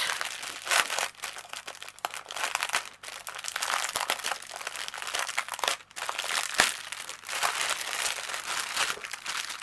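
Plastic packaging of a diamond painting kit crinkling and crackling irregularly as it is handled and opened to get at the bagged drills.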